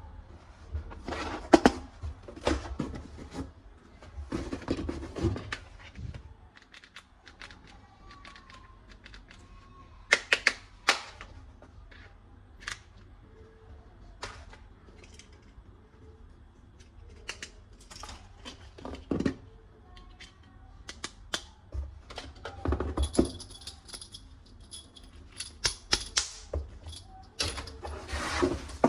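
Hard plastic toy parts clicking, knocking and rattling as they are handled, in irregular clusters of sharp clicks with quieter gaps between.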